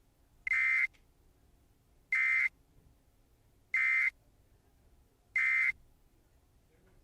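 Four short electronic beeps, evenly spaced about a second and a half apart, each a steady high buzzer-like tone.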